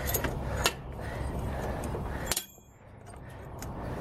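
A few sharp metallic clicks and clinks from a spark plug remover wrench as the old spark plug is loosened from a lawn mower engine. The last click comes about two and a half seconds in, after which the background hum drops away suddenly.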